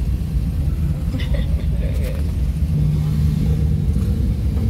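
Car engine and road noise heard from inside a moving car's cabin: a steady low rumble, with a steadier engine note held for about a second past the middle.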